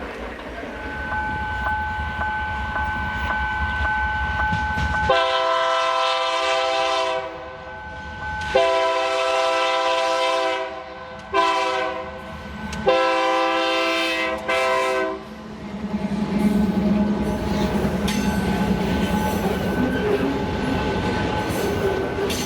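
A freight train's diesel locomotive sounds its multi-tone air horn in the grade-crossing pattern of long, long, short, long, over the steady noise of the train rolling by. A thin steady high tone comes before the horn, and a low engine hum follows it.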